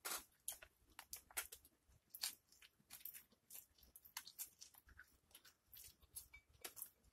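Close-miked eating sounds: biting into and chewing a soft pulled pork sandwich on white bread. It comes through as an irregular string of short mouth clicks and smacks, several a second.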